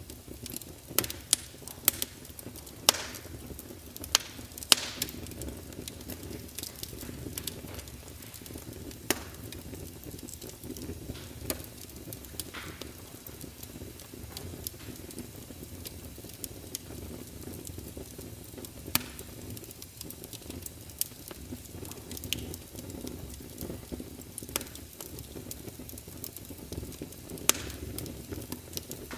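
Wood fire burning, with sharp crackles and pops at irregular intervals over a steady low rumble of flame. The loudest pops come in a cluster in the first few seconds, with another near the end.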